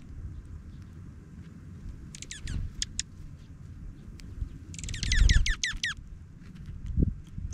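Small songbirds chirping: a few high, quick down-slurred chips about two seconds in, then a rapid run of chirps lasting about a second past the middle, over a steady low rumble.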